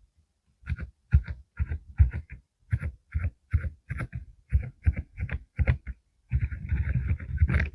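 Mechanical keyboard with low-noise Deep Sound switches being typed on, at first in short clusters of two or three keystrokes, then breaking into fast continuous typing about six seconds in.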